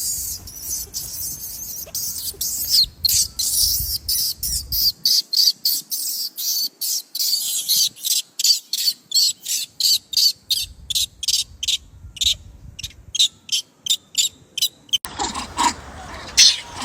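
High-pitched chirping repeated in a steady rhythm of about two to three chirps a second, giving way near the end to a denser, noisier sound.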